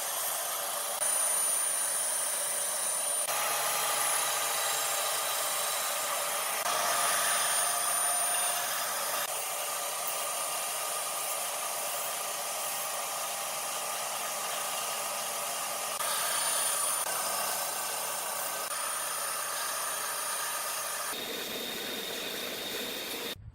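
A power tool working wood, a steady high-pitched whirring hiss that changes abruptly in tone several times.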